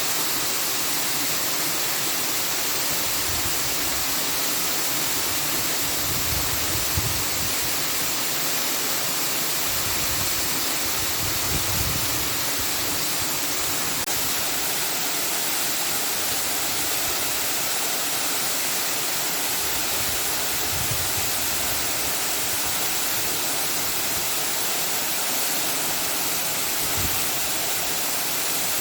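Steady, even rushing noise with no pitch and no breaks.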